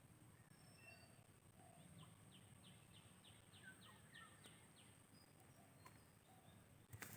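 Faint outdoor ambience with distant birds chirping, including a quick run of about ten short falling notes in the middle, about five a second. A single sharp click near the end is the loudest sound.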